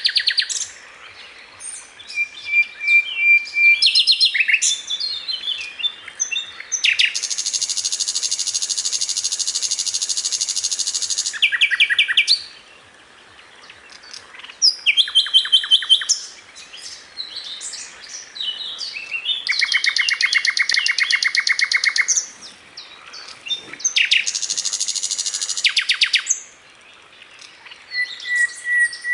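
Sikatan londo singing: long runs of very fast, dry rattling trills lasting several seconds each, with short high chirps and brief whistled notes between them and a few quieter pauses.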